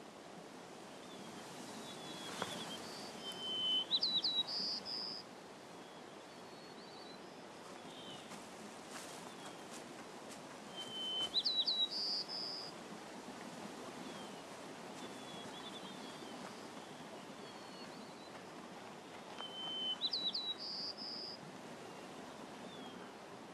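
A songbird singing the same short phrase three times, about eight seconds apart: a lower whistled note, a quick run of rising notes, then a higher held note. Between the phrases, a faint steady outdoor background hiss with a few soft chirps.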